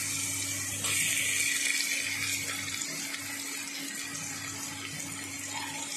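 Chopped onions and mushrooms sizzling in hot oil in a steel pressure-cooker pot, a steady hiss that swells for about a second shortly after the start.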